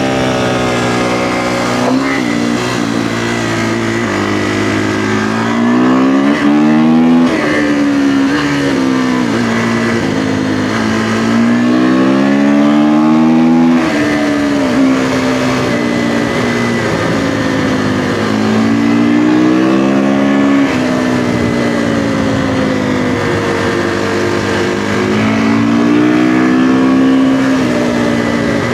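Kawasaki KX450F dirt bike's single-cylinder four-stroke engine under way on the road. The revs climb and then drop sharply several times, and the engine slows and picks up again near the end.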